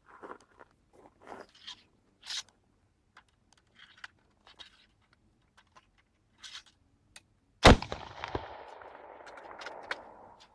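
Scattered light clicks and knocks of handling a Chassepot needle-fire rifle. About three-quarters of the way in comes a single black-powder rifle shot, whose report trails off over about two seconds.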